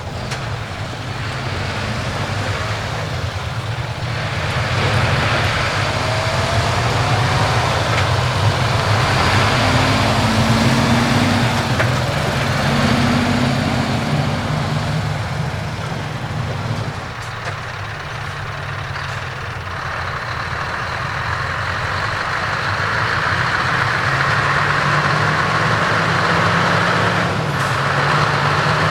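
Heavy trucks driving past, their diesel engines running loud through open exhaust pipes. The sound swells, dips a little past halfway, and builds again near the end as more trucks come by.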